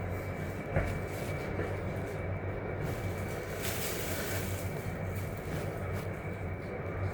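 Motorcycle running at low speed: a steady low rumble with road noise and a faint steady high whine, and a single click under a second in.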